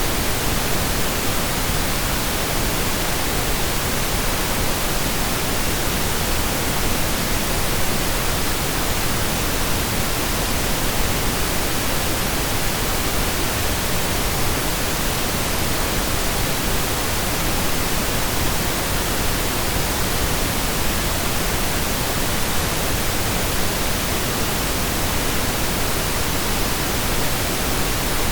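Synthesized stereo pink noise: a steady, even hiss with equal energy per octave, with no changes or breaks.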